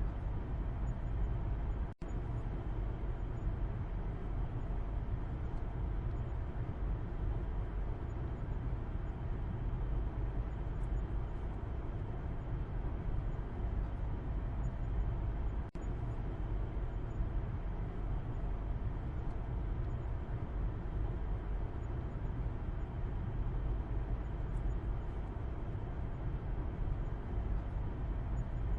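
Steady car ride heard from inside the cabin, a low rumble of engine and tyres on the road under an even hiss. The sound cuts out very briefly twice, about two seconds in and again a little past the middle.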